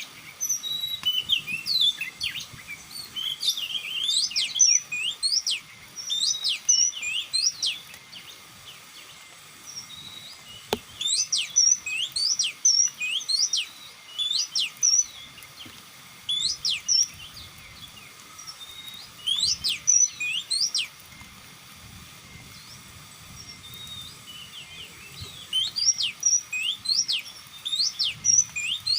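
Oriental magpie-robin song: short phrases of quick, sharp sweeping whistled notes, sung in bursts with brief pauses between them and one longer pause late on.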